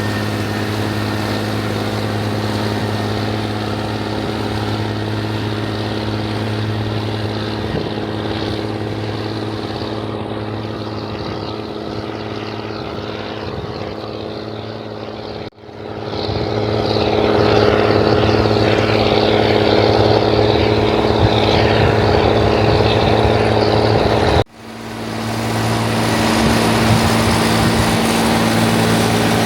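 Rába 250 tractor diesel engine running steadily with a deep even drone. About halfway through it gets louder and harsher, and the sound drops out briefly twice.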